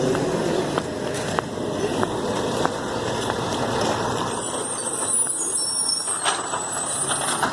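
Garbage truck running, with a few sharp ticks in the first few seconds and a thin high squeal from about four to six and a half seconds in.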